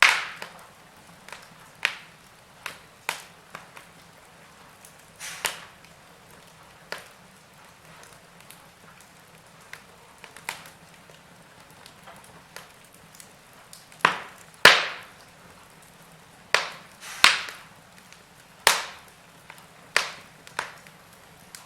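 Wood fire in a fireplace crackling: irregular sharp pops and snaps of burning logs over a faint steady hiss, with a run of louder pops about two-thirds of the way through.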